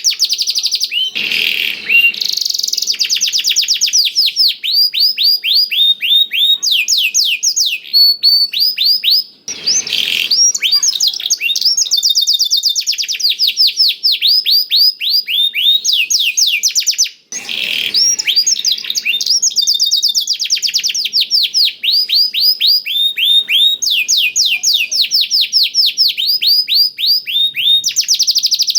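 Domestic canary singing a long, unbroken song studded with learned black-throated canary (blackthroat) phrases: fast trills of repeated downward-sweeping high notes, switching to a new trill every few seconds. Three short harsh, raspy notes cut in, near the start, about ten seconds in, and after about seventeen seconds.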